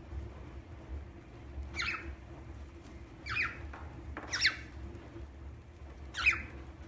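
A parrot giving four short chirps, each sliding quickly down in pitch, spaced a second or two apart; the last is the loudest.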